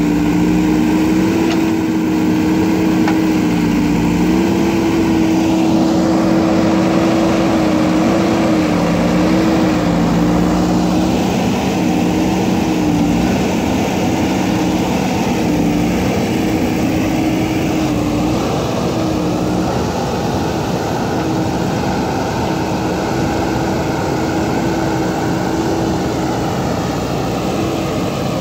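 JCB backhoe loader's diesel engine running steadily at working speed, its pitch dipping and rising slightly now and then as the load changes.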